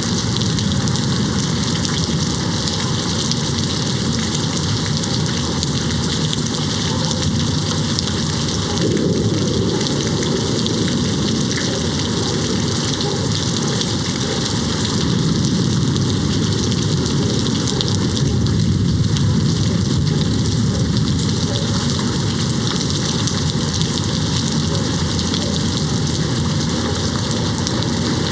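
Steady, heavy rain beating on a window pane. The deep part of the sound swells briefly about nine seconds in, and again for several seconds in the middle.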